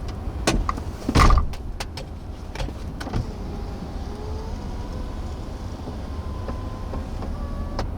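Steady low rumble of an idling vehicle, with several sharp knocks in the first two seconds, the loudest about a second in, and a few more later. Faint steady tones come in from about three seconds in.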